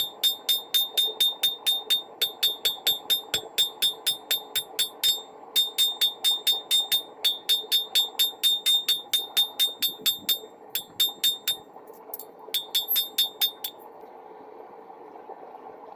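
Hammer striking hot rebar on a steel anvil in a fast, steady rhythm of about four or five blows a second, each blow ringing brightly, with two short pauses; the hammering stops about three-quarters of the way through. A steady rushing of the propane forge burner runs underneath.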